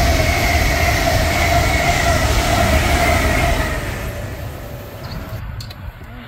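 A train passing at speed: a loud rumble with a steady pitched whine that sinks slightly in pitch. It dies away as the train moves off, from about four seconds in.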